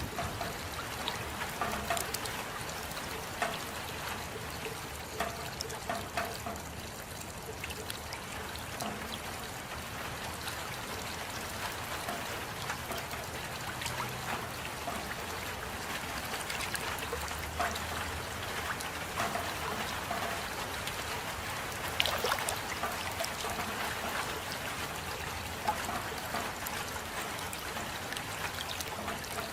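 Steady rain with water trickling and dripping, individual drops plinking here and there; one drop lands louder about two-thirds of the way through.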